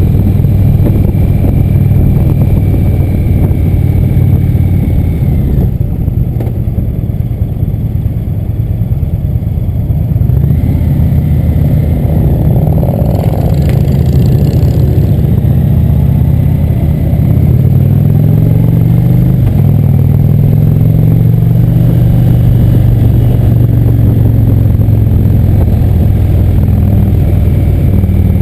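Motorcycle engine running while under way. About two-thirds of the way through, its pitch climbs as it accelerates, dips briefly at a gear change, then holds steady.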